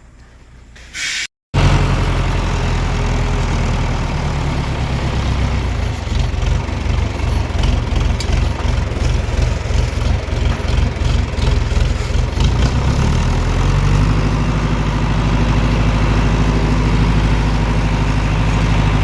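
Tractor engine running loud and close, with a regular throbbing beat through the middle stretch that settles to a steady run near the end, as it works at loading hay bales.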